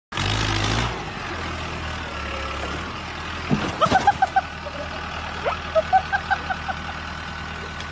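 Tractor engine running with a low, steady drone after a louder burst in the first second. Two runs of quick, short, high notes come about four and six seconds in.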